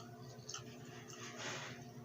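Close-miked chewing of grilled skewered street food: small wet mouth clicks and a soft, longer wet smacking sound about a second and a half in, over a faint steady hum.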